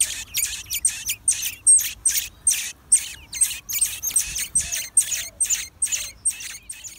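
Nestling birds giving raspy, high-pitched begging calls, about three a second in a steady run, stopping near the end.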